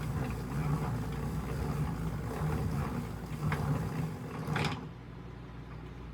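A steady low mechanical hum with a couple of faint clicks. It drops to a quieter hum near the end.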